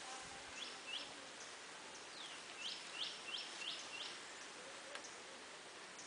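A bird calling in short, sharp high chirps: two just before a second in, then a quick run of about five from about two and a half seconds in, over a faint steady outdoor hiss.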